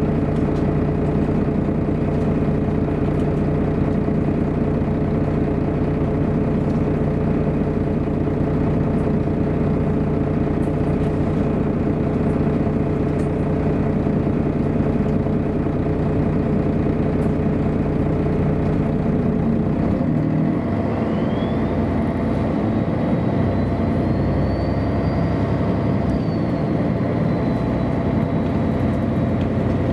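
MAN A23 NG313 articulated city bus engine running steadily, heard from the bus. About two-thirds of the way through, the engine note changes and a whine rises in pitch and then holds, as the bus gets under way.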